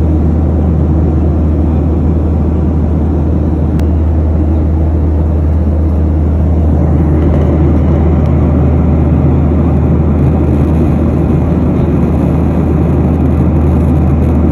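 Airliner cabin noise: steady engine and airflow rumble with a strong low hum, growing a little louder about halfway through.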